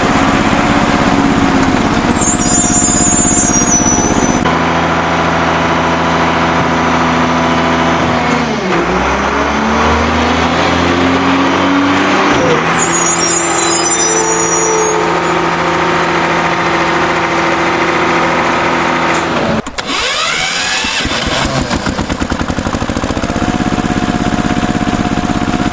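Vehicle engine running steadily, its pitch dropping and then climbing back up in the middle, with a short sharp break about twenty seconds in. Brief high chirping is heard twice over it.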